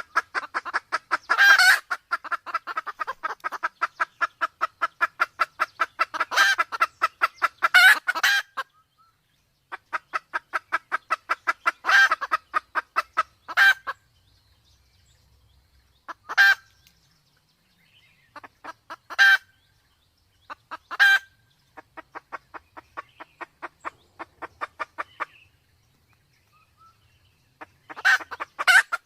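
Red junglefowl clucking in long, rapid runs of about five clucks a second, with louder single calls standing out every few seconds and brief pauses between runs.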